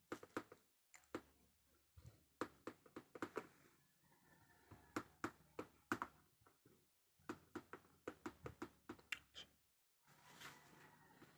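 Laptop keyboard keys being pressed in quick runs of sharp clicks, several a second, with short pauses between the runs.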